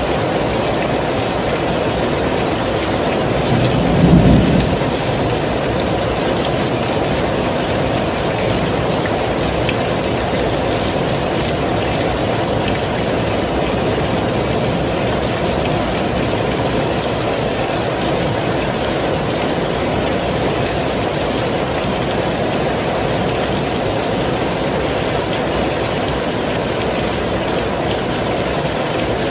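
Heavy rain falling in a steady, dense hiss. About four seconds in comes a brief low rumble, the loudest moment.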